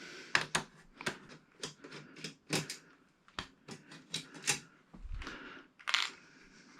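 Irregular sharp clicks and taps, about two or three a second, from small hard parts such as screws and plastic being handled during TV disassembly, with a low thump about five seconds in.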